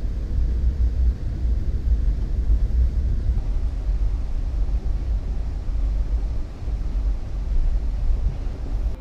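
Steady low rumble of a moving vehicle, most likely the train, with its energy deep in the bass. It cuts off abruptly at the very end.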